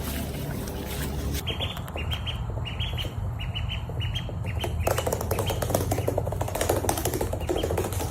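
A bird chirping in many short, quick calls over a steady low hum. From about five seconds in there is a dense rustling, clicking noise.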